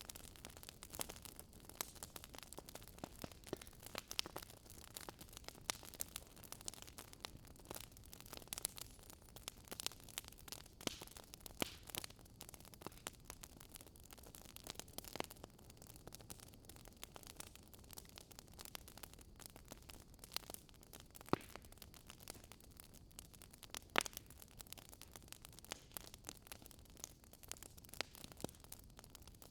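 Wood fire crackling in a fireplace: quiet, irregular snaps and pops over a soft steady hiss, with an occasional louder pop.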